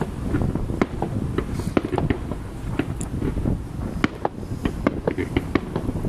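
Fireworks display: a rapid, irregular string of sharp bangs and crackles over a continuous low rumble of bursting shells. A short high streak sounds about three seconds in.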